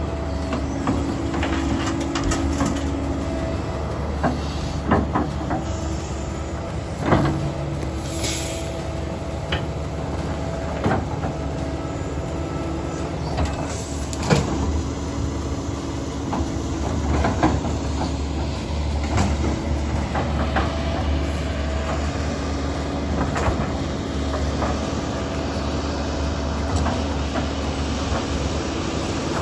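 A large excavator's diesel engine runs steadily under load, with sharp metal clanks and knocks every few seconds as the bucket digs and dumps.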